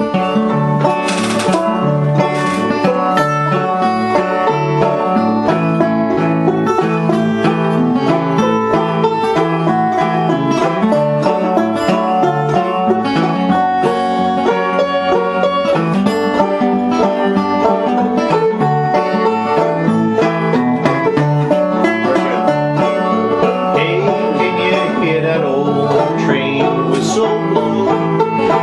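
Fingerpicked acoustic guitar, capoed at the second fret, playing an alternating-bass pattern with a melody picked over it.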